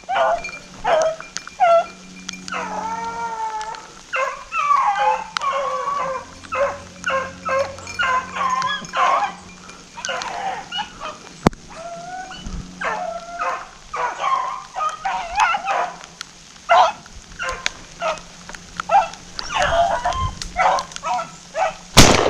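A pack of rabbit dogs baying and howling while running a rabbit, the calls coming in quick repeated bursts and sometimes overlapping. A single loud gunshot cracks just before the end.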